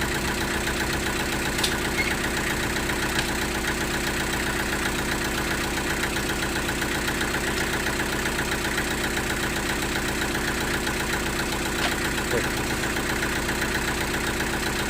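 Sawmill engine running steadily at an even speed: a constant drone with a fast, regular pulse, and a few faint clicks.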